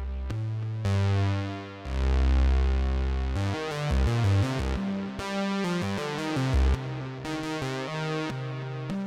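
Behringer Poly D analog synthesizer playing a line of held notes over deep bass, its tone brightening and darkening as the filter opens and closes.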